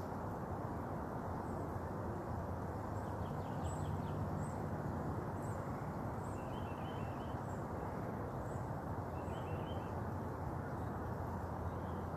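Outdoor ambience: a steady low rushing noise, with faint high bird chirps repeating about once a second and two short twittering bird calls, one just past halfway and one near the end.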